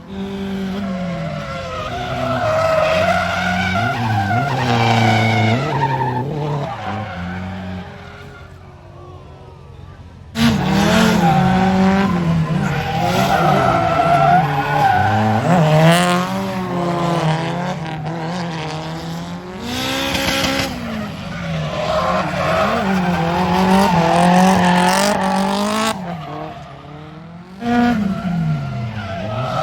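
Drift cars at full throttle, engines revving up and down with tyres squealing and skidding. The sound changes abruptly about ten seconds in and again near the end as it cuts between cars.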